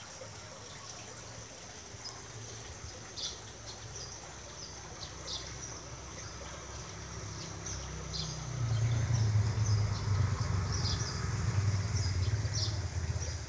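Birds chirping, with short high chirps scattered throughout. A low rumble swells about two-thirds of the way in and becomes the loudest sound.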